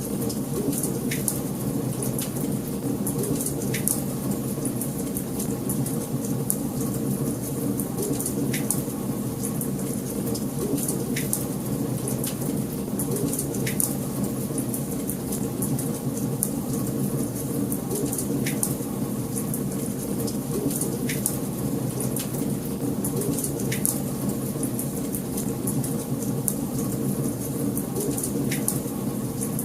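Wood fire crackling in a fireplace: a steady low rush of burning, with sharp pops every second or two.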